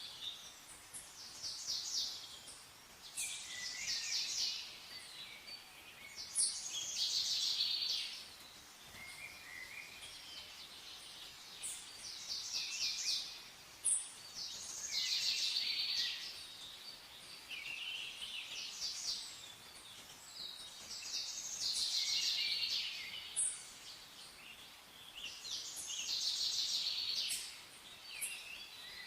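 Songbirds singing: a rapid trilled song phrase repeats every few seconds, with shorter chirps in between, over a faint steady hiss.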